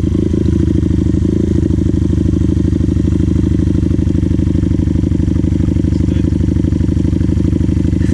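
Dirt bike engine idling steadily, with a fast, even pulse and no revving.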